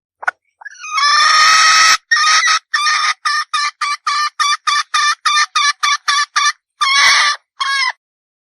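Red junglefowl hen calling: a long drawn-out call, then a run of about fourteen short, quick clucks at roughly three a second, ending with two more longer calls.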